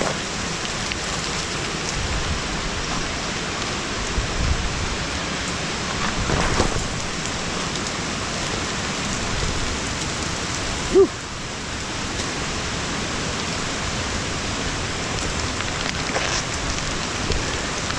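Steady rushing of a nearby waterfall, an even hiss of falling water.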